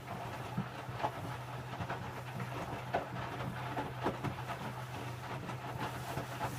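Electrolux W455H commercial washing machine tumbling a load of towels during its prewash: a steady low motor hum with irregular knocks and sloshing from the drum about once a second.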